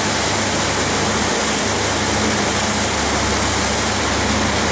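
Cruise boat under way: a steady engine drone beneath loud, constant rushing of wind and water.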